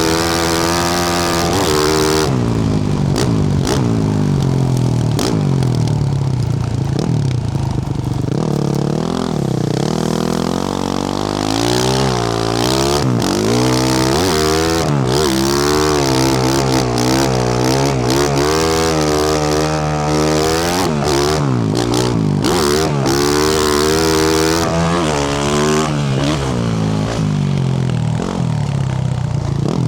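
Yamaha YZ450F dirt bike's single-cylinder four-stroke engine, fitted with a Yoshimura RS-12 exhaust, revving up and falling back over and over as the bike is ridden and shifted. Sharp knocks and clatter sound now and then, most of them in the second half.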